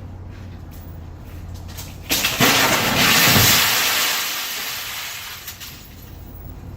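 A vehicle crash: over a steady low vehicle hum, a sudden loud impact about two seconds in turns into a crunching, glassy noise that fades away over the next few seconds.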